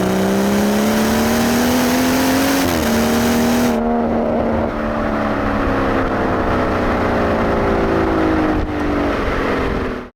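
BMW B58 3.0-litre turbocharged straight-six exhaust under acceleration: the revs climb for a few seconds with a brief shift about three seconds in. The throttle then comes off and the engine note falls slowly and evenly until the sound cuts off abruptly near the end.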